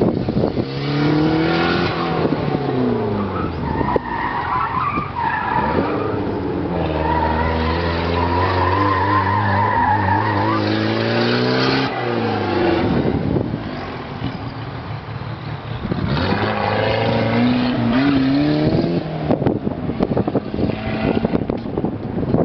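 Eagle Talon's turbocharged 4G63 four-cylinder engine revving hard and falling back again and again as the car is driven around an autocross course, with tyres squealing through the turns. The sound dips in the middle and builds again towards the end.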